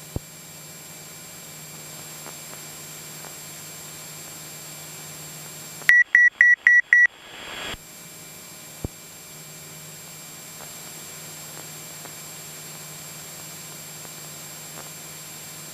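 Steady, muffled cockpit drone of a Cessna 172SP in flight, heard through the headset intercom. About six seconds in, a rapid burst of five high beeps sounds over it, followed by a short hiss and a single click.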